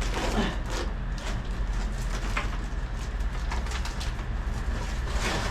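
A bird cooing, pigeon- or dove-like, over repeated rustles and light knocks of things being handled, with a steady low hum underneath.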